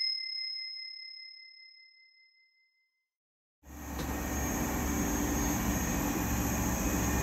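A bell-like ding fading away over about three seconds, then silence. About three and a half seconds in, the steady rumble and hiss of a TGV high-speed train running cuts in abruptly, heard from inside the carriage.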